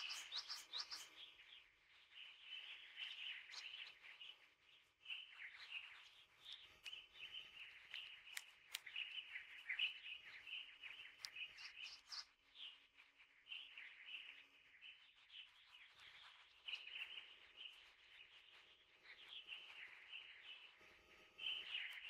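Small birds chirping faintly in short, repeated phrases.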